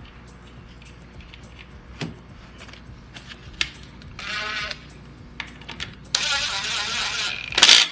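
Metal clinks and clicks from tools on the oil drain bolt, then a power drill runs in short bursts, briefly about four seconds in and again for over a second near the end, driving the drain bolt back into the oil pan.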